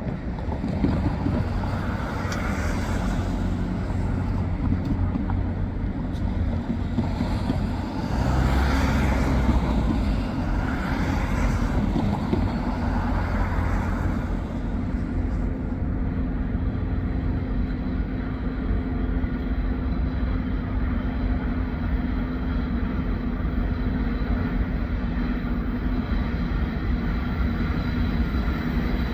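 Low, steady rumble of an approaching diesel freight train's locomotives, with a few soft swells and a steady low drone coming in about halfway through as the engines draw nearer.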